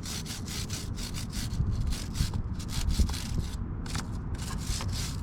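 A brush scrubbing a motorcycle chain in quick back-and-forth strokes, about three or four a second.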